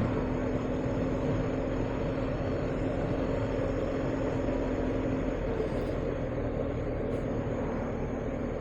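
BMW R1250GS boxer-twin engine running at a steady cruise, mixed with wind and road noise on the rider's microphone.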